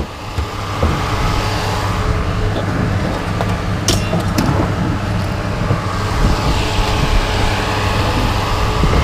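A vehicle engine running steadily, with one sharp knock about four seconds in.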